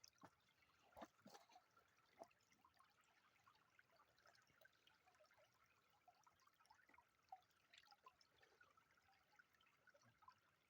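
Faint trickling of stream water, with scattered small drips and splashes.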